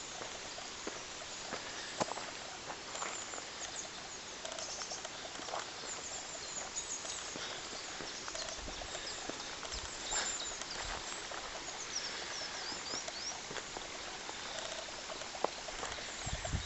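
Footsteps of a walker on a forest path, irregular soft steps and knocks, with small birds chirping high in the trees.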